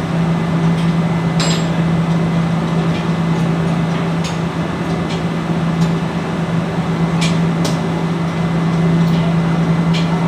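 A steady machine hum with a few sharp clicks or light taps scattered through it, about five in all.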